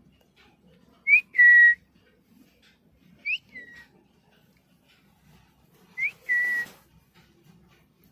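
Pet parrot whistling three times, each call a quick rising note followed by a longer steady note.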